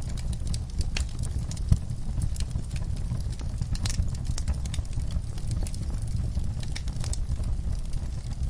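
Wood fire in a fireplace crackling with frequent small pops over a low steady rumble, one sharper pop a little under two seconds in.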